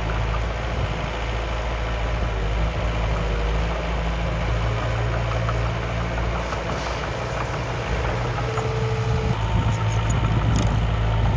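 Miniature model construction machine, the dump truck or bulldozer, running steadily with an even, low engine-like hum.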